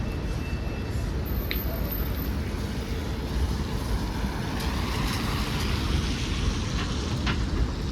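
City street traffic: a steady low rumble, with a passing vehicle swelling and fading about halfway through. A couple of short sharp clicks can also be heard, one early and one near the end.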